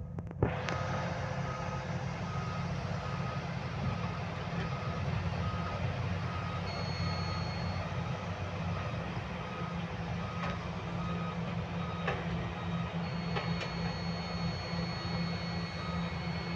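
Backup alarm of heavy site machinery beeping at a steady regular rate while a diesel engine runs, with a few short knocks.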